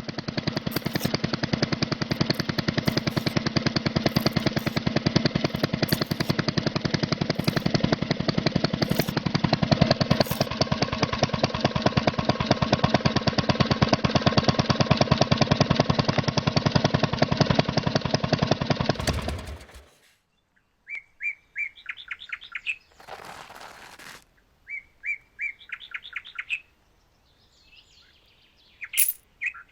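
Mini diesel engine running with a rapid, even knocking beat, then shut off about twenty seconds in. Afterwards birds chirp in short repeated series, with a brief rush of noise between them.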